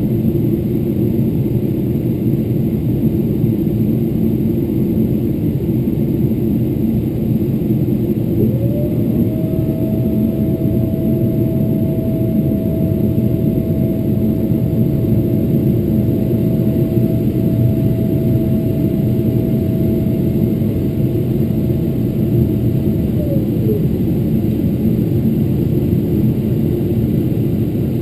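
Steady low rumble of cabin noise inside a Boeing 777-300ER in flight, from its GE90 engines and the airflow. About eight seconds in, a steady whine rises in, holds, and drops away about five seconds before the end.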